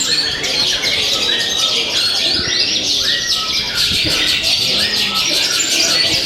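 Several songbirds singing at once: a dense, continuous mix of fast chirps, trills and rising and falling whistled notes.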